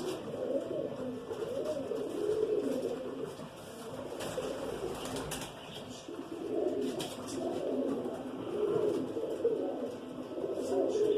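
Pigeons cooing, several birds calling over one another, with a short lull midway.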